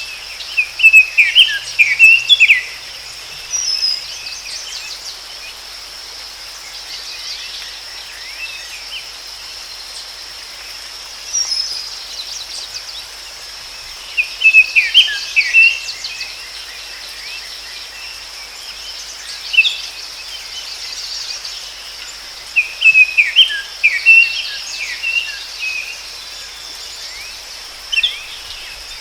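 Forest ambience: a songbird sings a short burst of quick chirping notes, repeated about every nine or ten seconds, over a steady high-pitched insect drone.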